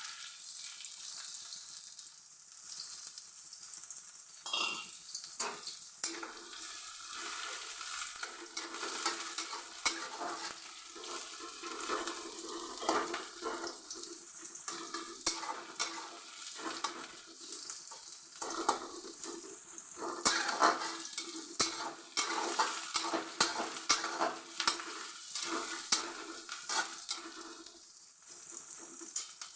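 Sliced onions sizzling as they fry in hot oil in a kadai, being stirred and turned with a spatula that clicks and scrapes against the pan again and again. They are being fried reddish-brown into beresta, the crisp fried onions for biryani.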